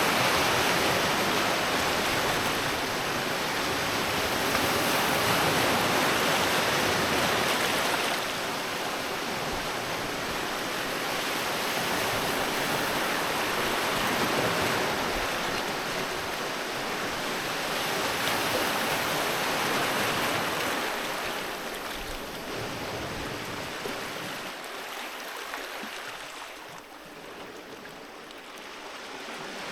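Sea waves breaking and washing on a beach, a continuous rushing wash that swells and eases every few seconds, growing quieter near the end.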